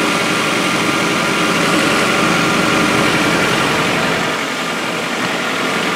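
1998 Chevrolet Tracker's four-cylinder engine idling steadily.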